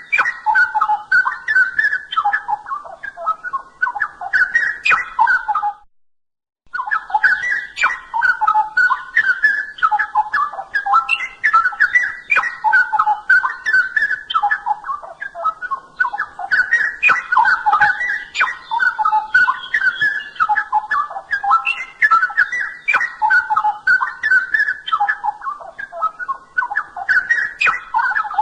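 Straw-headed bulbul (cucak rowo) singing continuously, a rapid run of rich warbled phrases, with a brief silent break about six seconds in.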